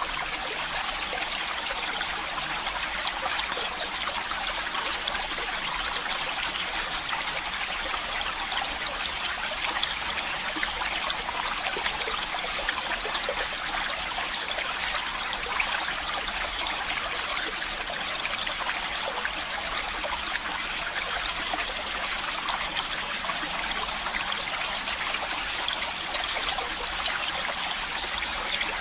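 Running water of a stream, a steady trickling rush with no pauses or changes.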